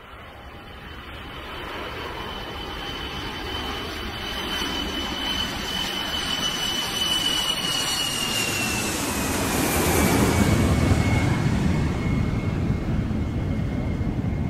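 Boeing 747 jet engines on landing approach, growing steadily louder and loudest about ten seconds in as the airliner passes. A high engine whine drops in pitch as it goes by, with a deep rumble at the loudest point.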